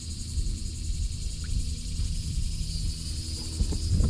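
Insects in the riverside trees making a steady high-pitched drone, over a constant low rumble.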